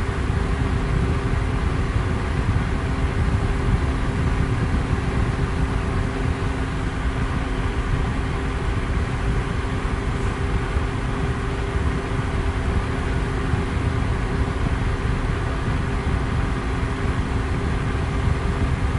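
Electric fan running at a constant high speed: a steady rush of air, strongest in the low range, with a faint steady motor hum beneath it.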